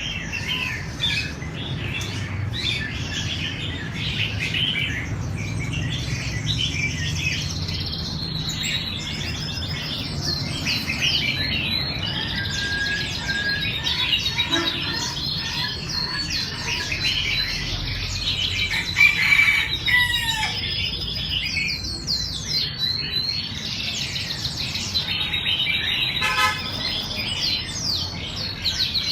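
Red-whiskered bulbuls singing and chirping continuously, several birds' quick phrases overlapping, over a low steady rumble.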